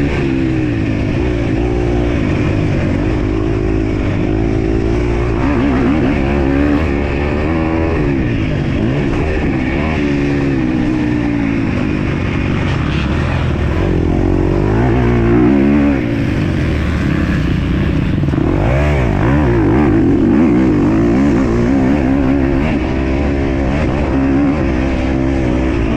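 Motocross bike engine revving hard, its pitch rising and falling again and again as the rider accelerates, shifts and backs off through the track's turns and jumps.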